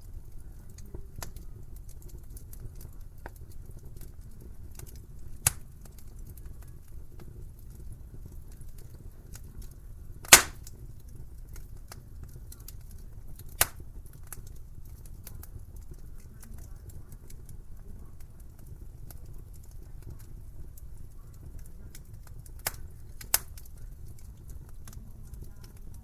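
Wood fire crackling in a fireplace: a steady low rumble of flames under a constant patter of small crackles, broken by five sharp pops, the loudest near the middle.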